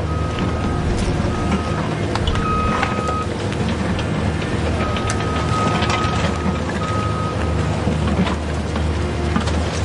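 Toy RC construction vehicle running, with a steady low motor hum, an electronic warning beep sounding on and off in uneven stretches, and scattered plastic clicks.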